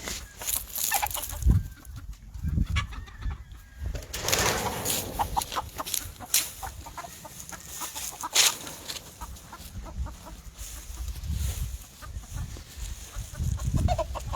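Whitehackle gamefowl chickens clucking in short, scattered calls, among sharp clicks and low thumps.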